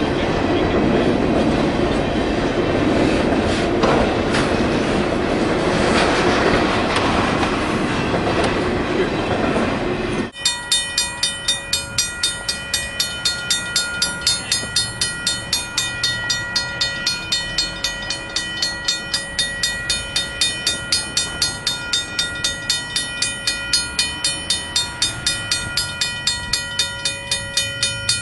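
Freight train of trailers on flatcars rolling past with a steady rumble and clatter of wheels on rail. About ten seconds in it cuts off suddenly, and a railroad crossing bell rings steadily at about three strokes a second.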